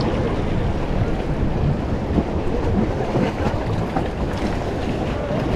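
Steady wind buffeting the microphone over a rushing wash of water.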